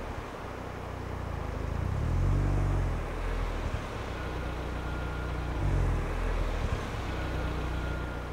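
Car engine running as the car drives slowly, revs swelling up and easing off twice.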